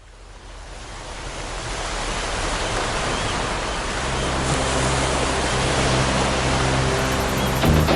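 Ocean surf fading in at the start of a song. About halfway through, low sustained musical notes come in beneath it.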